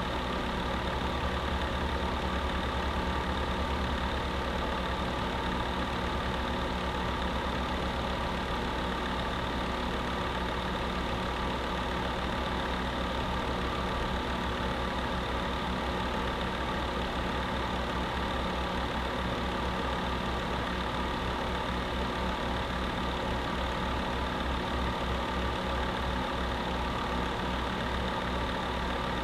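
Electric space heater running steadily: a constant fan whoosh layered with a low motor hum.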